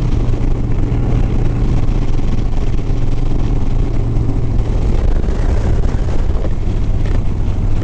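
Harley-Davidson Sport Glide's V-twin engine running steadily while riding, under continuous wind rush over the microphone.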